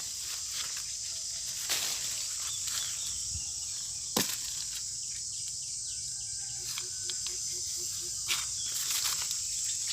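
Steady high-pitched chirring of insects, with a few sharp clicks and snaps, one of them about four seconds in.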